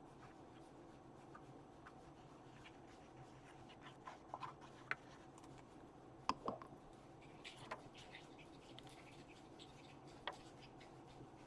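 Near silence, with scattered faint taps and light scratchy rustles of paper being handled and pressed down onto a journal page; the sharpest tick comes a little past the middle.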